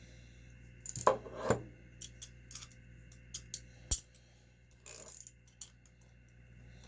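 Small metal engine parts and a tool clinking and tapping against each other and the bench, in a handful of sharp, irregular clicks, with a brief scrape about five seconds in.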